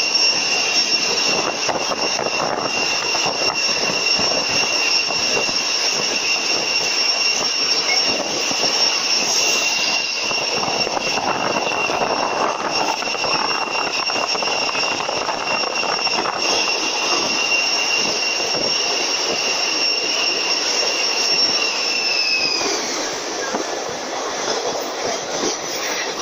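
Passenger train running at speed, heard from inside the carriage: a steady rushing rumble with a high whine over it that drops in pitch and fades about 22 seconds in.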